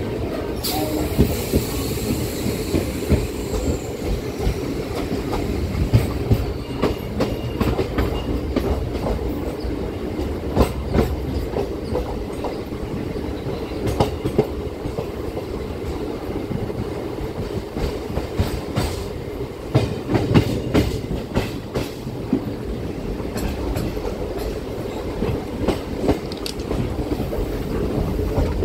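MEMU passenger train running, heard at an open coach door: a steady rumble with wheels clattering over rail joints and points. A high hiss rises and fades in the first few seconds.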